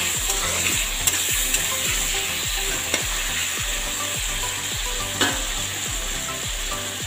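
Chicken pieces sizzling in hot oil in a kadai, a steady frying hiss. A metal spatula stirs them, knocking against the pan a few times.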